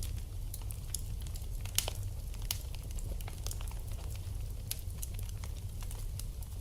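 Wood fire in a fireplace crackling, with irregular small pops and snaps over a steady low rumble; one sharper pop a little under two seconds in.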